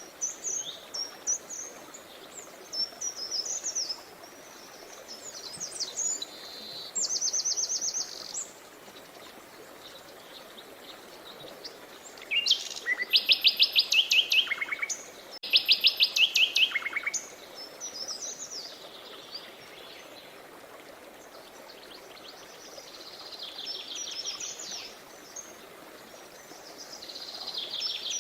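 Songbirds singing in a series of high chirps and rapid trills, the loudest trilled phrases coming about halfway through, over the faint steady rush of river water.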